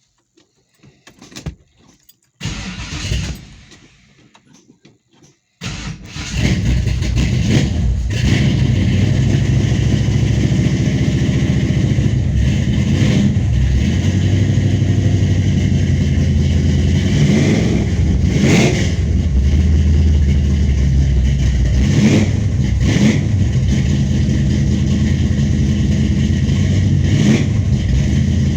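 1970 Ford Torino's big-block Ford V8 with a Dominator carburettor, cold-started: a short burst about two and a half seconds in, then the engine fires and catches about five and a half seconds in. It runs loudly from there, picking up and settling back several times as the throttle is blipped.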